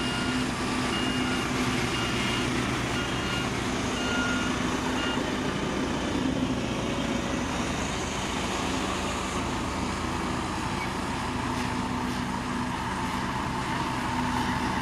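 Diesel engine of heavy construction machinery running steadily, with a reversing alarm beeping about twice a second for the first five seconds or so.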